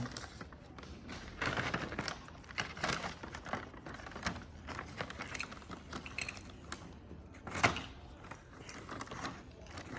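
Plastic goodie bags crinkling and small plastic toys clicking together as they are handled, in irregular bursts, with a louder rustle about three-quarters of the way through.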